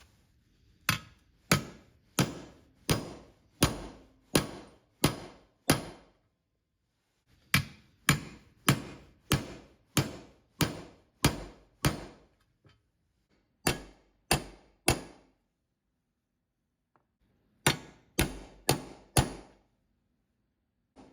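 Hammer striking metal, even blows about every 0.7 s in runs of eight, eight, three and five with short pauses between. Each strike has a brief metallic ring.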